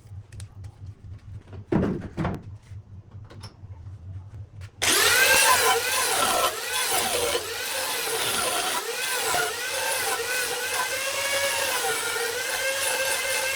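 A power tool working wood switches on about five seconds in and keeps running loud, its whine wavering in pitch as the load changes. Before it starts there is a low hum and a single thump about two seconds in.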